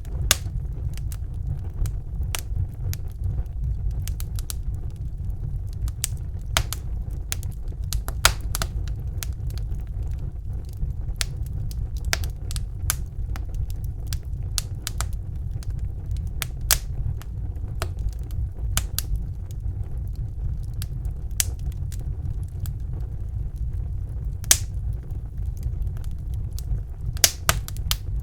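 Fire crackling in a fireplace: irregular sharp snaps and pops over a steady low rumble, with a few louder snaps near the end.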